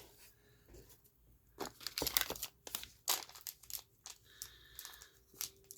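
Crinkling of the wrapper of a stick of Rodico watchmaker's putty being opened: irregular crackling in clusters, mostly about one and a half to three seconds in and again near the end.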